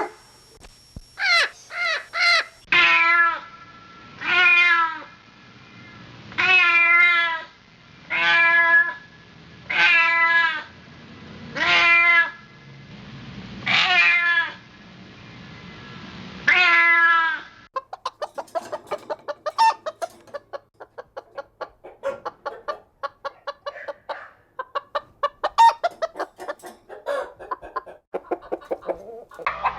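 A cat meowing, about eight drawn-out meows a second or two apart. Then, a little past the halfway point, it gives way to chickens clucking in quick, busy bursts.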